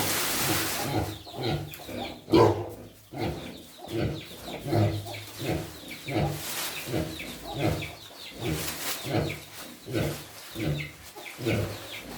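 Sow grunting in a steady rhythm, short low grunts a little more often than once a second, with a hiss in the first second.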